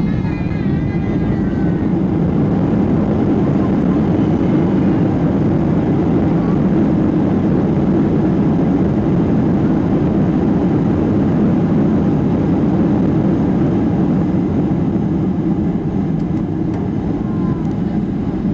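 Boeing 737-800 jet engines and rushing airflow, heard from inside the passenger cabin as a steady, even noise.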